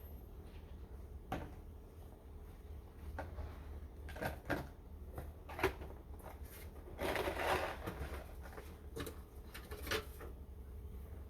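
Snow crunching and scraping in irregular strokes as a path is cleared, the longest scrape about seven seconds in, over a steady low hum.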